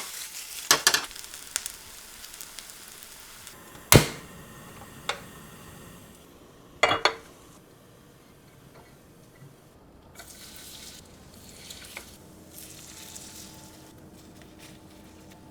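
Food sizzling in a frying pan while a cooking utensil knocks and scrapes against the pan several times. The sharpest knock comes about four seconds in, and two quick ones come near seven seconds.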